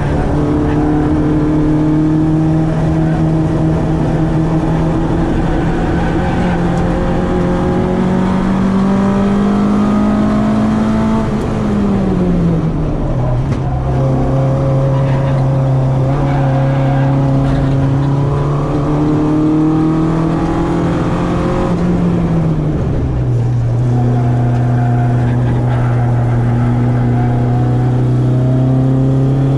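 Citroen AX's 8-valve four-cylinder engine on twin Weber 40 carburettors running hard on track. Its note climbs slowly for about eleven seconds, drops sharply, climbs gently again and drops once more about two-thirds of the way through, as the driver lifts or changes gear.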